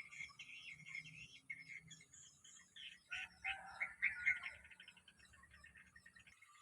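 Bulbuls chirping and calling in quick short notes, with a louder burst of calls about three seconds in and a fast, even run of ticking notes near the end.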